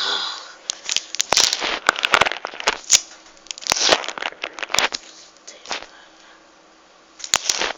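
Sticky tape being pulled and handled, crackling in irregular bursts of sharp clicks, with a quiet pause shortly before a last burst near the end.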